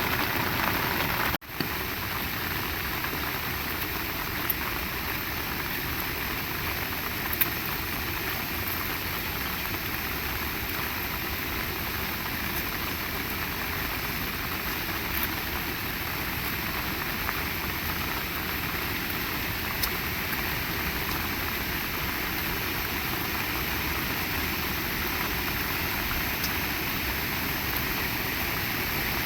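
Heavy rain falling as a steady hiss, with a few sharper drops ticking now and then. The sound cuts out for an instant about a second and a half in.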